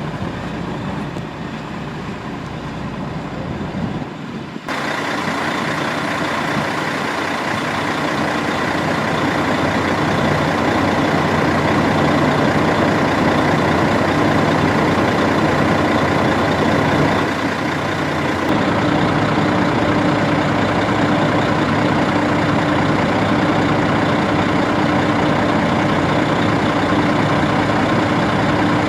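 A large truck's engine idling steadily close by, with a constant low hum and a few fixed tones over a noisy rumble. It grows louder and brighter about five seconds in.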